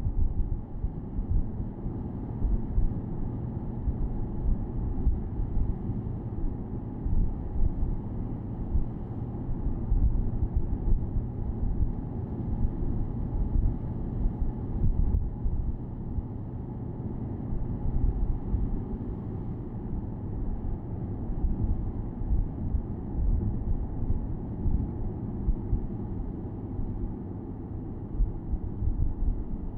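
Porsche Boxster S (987.2) flat-six engine and tyre rumble heard from the open-top cabin while cruising at a steady pace, with wind buffeting the microphone.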